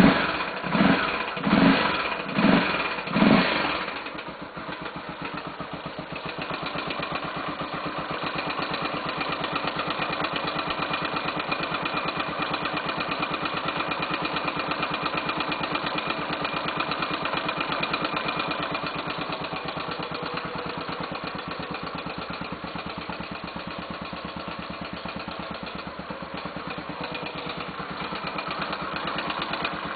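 Honda XR 250 Tornado's single-cylinder engine just after starting cold: about five quick blips of the throttle in the first few seconds, then settling into a steady idle with a fast, light tapping. The owner takes the tapping for the tappets rather than the valves.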